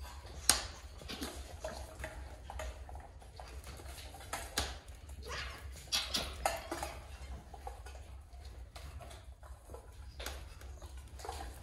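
Faint, scattered short sounds from dogs, with light clicks and taps between them.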